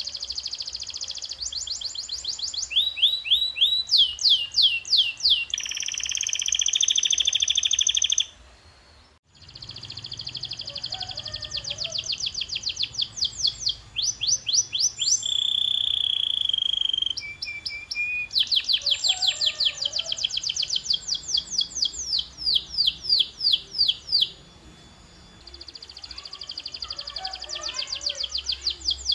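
Domestic canary singing: long tours of rapidly repeated, falling chirps and rolling trills, changing from one phrase to the next, with a short break about eight seconds in.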